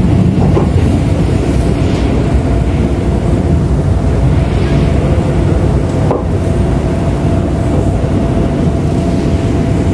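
Cabin noise inside a moving KRL electric commuter train: a steady rumble of the wheels on the track with one faint steady tone over it, and a single short knock about six seconds in.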